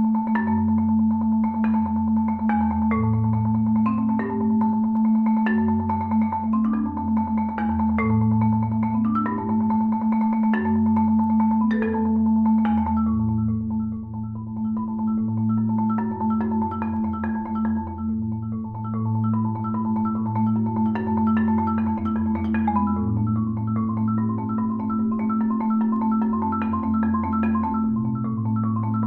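Solo marimba playing: rolled low notes changing every second or two under a held middle note, with quicker short high notes above. About thirteen seconds in it grows a little softer and the upper part turns to an even run of repeated short notes.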